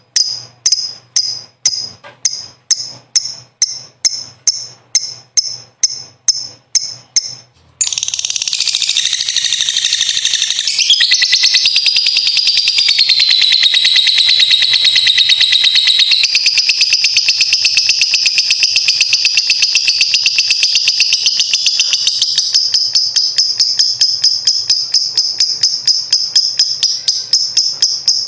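Lovebird calling in a string of short, sharp, high chirps, about two or three a second. About eight seconds in it breaks into a long, unbroken, rapid rattling trill, the 'ngekek panjang' song, which shifts in pitch as it goes.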